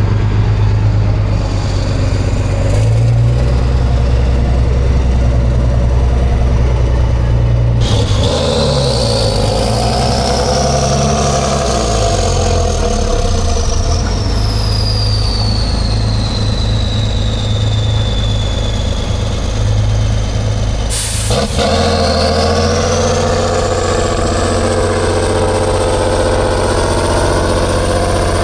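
Heavy diesel truck engine running hard under load, with a high whistle that rises and falls over it. The sound changes abruptly twice, about eight and about twenty-one seconds in.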